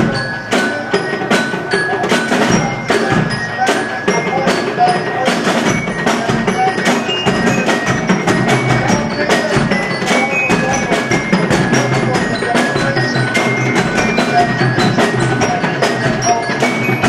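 Parade percussion playing a steady march beat: sharp, regular strikes about two to three a second, with ringing, bell-like metallic tones over them.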